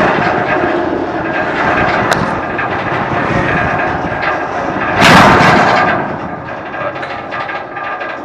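Freight train in motion, heard from aboard: continuous rumbling and rattling of the rail cars with scattered clanks, and a louder rush about five seconds in.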